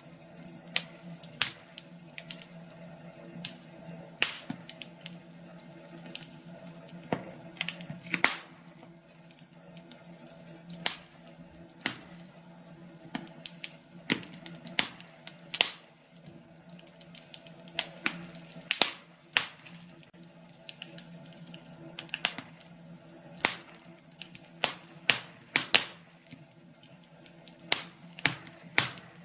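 Firewood burning in a fireplace, crackling with irregular sharp pops and snaps over a low steady background.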